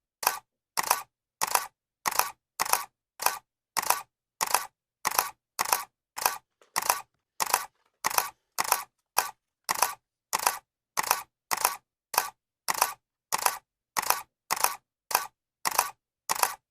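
Camera shutter clicking over and over in a steady rhythm, about two sharp clicks a second, each a quick double snap.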